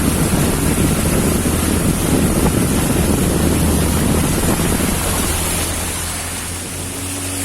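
Speedboat with a 40 hp engine running under way, its steady low drone mixed with rushing water and wind buffeting the microphone. The noise eases off a little near the end.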